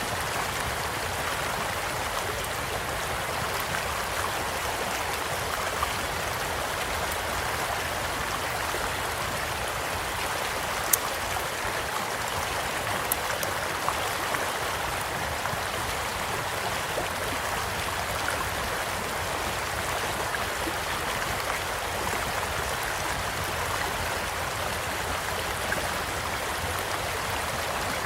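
A small stream flowing steadily, with a few sharp crackles from a wood campfire. The loudest crackle comes about eleven seconds in, and two smaller ones follow a couple of seconds later.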